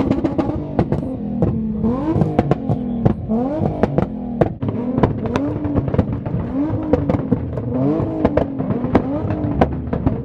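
A car engine revved again and again, its pitch climbing about once a second, with many sharp pops and cracks throughout.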